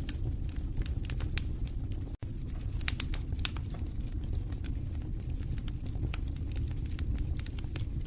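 Wood fire crackling in a fireplace: irregular sharp pops and snaps over a steady low rumble of the flames. The sound cuts out for an instant about two seconds in.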